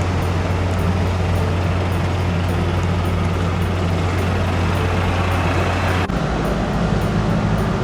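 Steady low engine hum of a large vehicle or vessel. About six seconds in it cuts abruptly to a different, somewhat higher hum.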